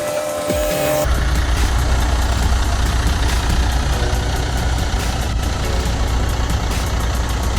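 Background music cuts off about a second in, giving way to the steady low rumble of a Volvo FH12 truck's straight-six diesel engine running.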